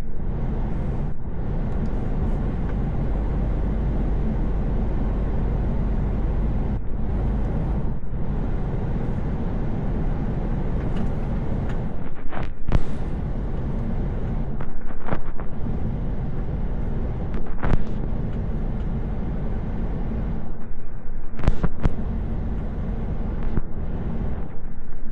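Truck driving at road speed: a steady engine and road rumble, with a few brief sharp knocks through the second half.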